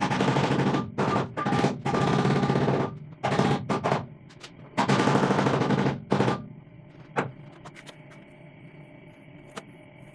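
MIG welder tacking a steel gearbox bracket to a car's chassis: a run of crackling weld bursts, each half a second to a second and a half long. The bursts stop about six seconds in, leaving a faint hum and two small clicks.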